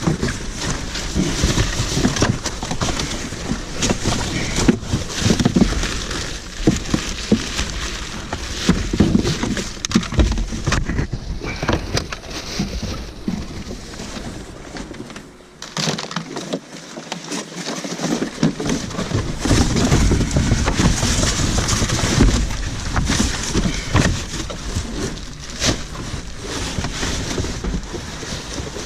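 Cardboard boxes and trash being shifted and crushed inside a dumpster: a busy run of crunching, rustling and knocks.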